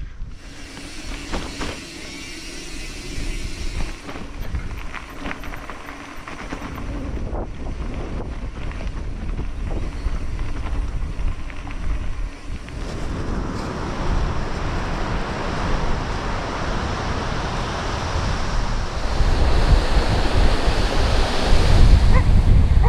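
Wind buffeting the microphone with a rushing wash of noise like surf behind it. There are scattered clicks in the first half; the rush thickens about halfway through and the low rumble grows stronger near the end.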